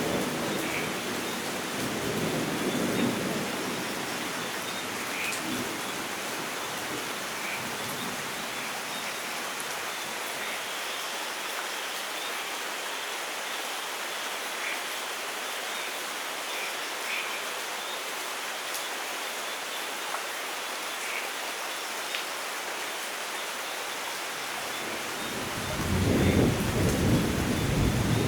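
Steady rain falling, with a thunder rumble fading out in the first few seconds and a louder roll of thunder starting near the end. Faint, short bird chirps come through the rain now and then.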